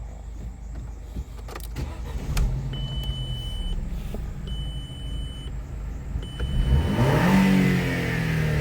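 Three electronic beeps, each about a second long, then the Audi A4 B7's 2.0-litre four-cylinder engine (ALT) starts about seven seconds in. Its revs flare up briefly and then ease back toward idle.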